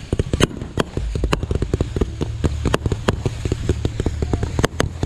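Fireworks going off in quick, irregular succession: many sharp crackling pops with a few louder bangs among them. A low steady hum runs underneath from about a second in.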